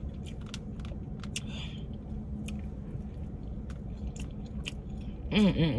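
A person chewing food close to the microphone, with many small wet mouth clicks. A short hummed vocal sound comes near the end.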